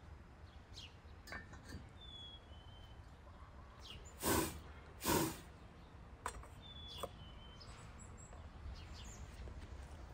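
Small birds chirping, a few short falling whistles, with light metal clinks as a samovar is handled. Two loud short whooshing puffs about four and five seconds in are the loudest sounds.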